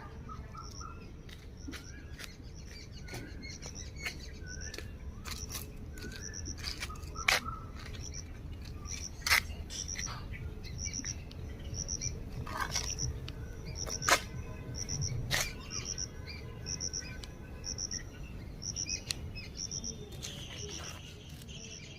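A short, high chirp repeats steadily about every three-quarters of a second, from a small animal such as an insect or bird. Softer, lower bird-like calls come and go in the first few seconds, and a few sharp clicks cut in.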